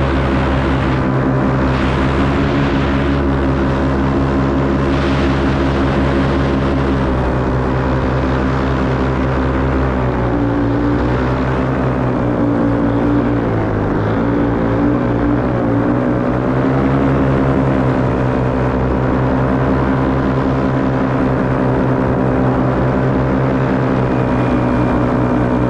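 Paramotor's two-stroke backpack engine and propeller running steadily in flight, its pitch dipping and rising again a few times about halfway through as the throttle is eased and reopened.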